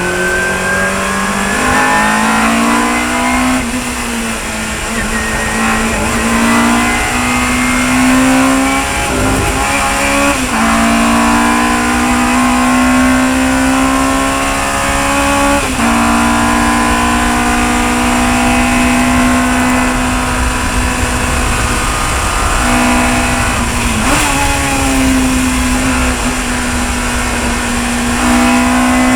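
Chevron B19 sports racing car's engine at racing revs, its pitch climbing steadily and then dropping suddenly several times as it changes gear, over a steady hiss.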